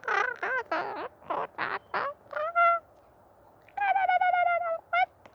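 A woman's high voice making wordless 'light language' vocalisations: a run of quick sung syllables, then a held note whose pitch pulses for about a second, and a short call near the end.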